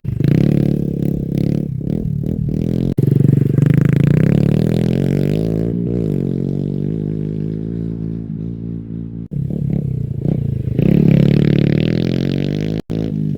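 Honda CRF110 pit bike's single-cylinder four-stroke engine running through an aftermarket exhaust, revving up and down repeatedly. It revs hard about three seconds in and again near the end, the note falling away as it eases off in between, with a few brief sudden breaks in the sound.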